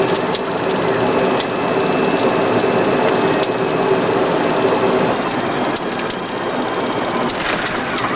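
Steady roar inside the flight deck of a Boeing 737-200 on final approach, from airflow and its Pratt & Whitney JT8D engines. A steady hum stops about five seconds in.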